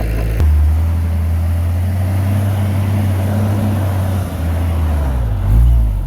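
Heavy diesel engine of earthmoving equipment running steadily under load. Its pitch steps up suddenly about half a second in, and near the end it revs up and back down.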